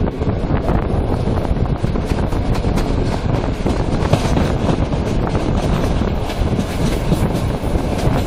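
Passenger train coach wheels rolling over the rails and station switches as the train pulls away on departure, with wheel clicks coming more often after about two seconds. Wind buffets the microphone held at the open carriage window.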